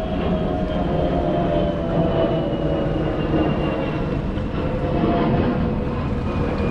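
Steady rumble of a passing vehicle, its whine slowly falling in pitch.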